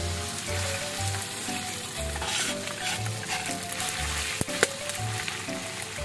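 Pounded eel-and-spice paste sizzling as it is fried in a wok and stirred with a metal spatula, with a couple of sharp clinks of the spatula on the pan about four and a half seconds in.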